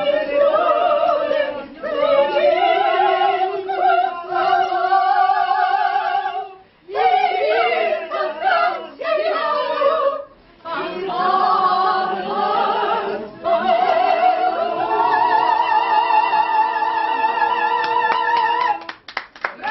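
A small group of singers singing a song in harmony, in a trained, operatic style with vibrato, in phrases with short breaths between. It ends on a long held note near the end.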